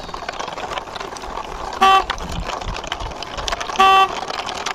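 A vehicle horn sounding short, loud toots, twice, about two seconds apart, over a steady scratchy noise.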